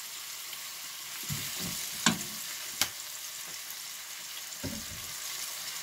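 Sliced zucchini and onion sizzling in a nonstick wok with soy sauce just added, turned with a spatula. Two sharp clicks of the spatula against the pan stand out about two and three seconds in.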